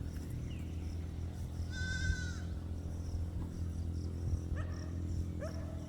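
Goats bleating: one clear, high-pitched bleat about two seconds in and a few shorter calls near the end, over a steady low rumble.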